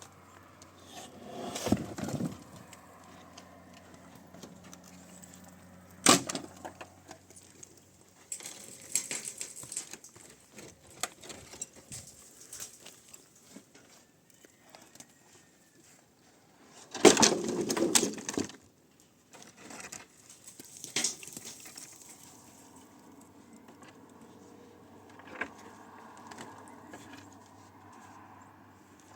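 Scattered knocks, thuds and rustling from hands-on work, with a sharp knock about six seconds in and a longer, louder clatter past the middle.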